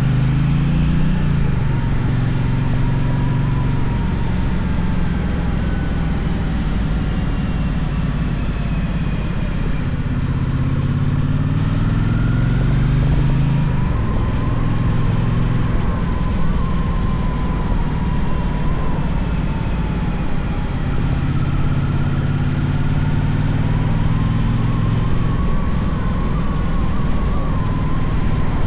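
Gaokin GK1200 motorcycle engine pulling hard and running through the gears, its note repeatedly rising and dropping back at each shift, under constant riding noise.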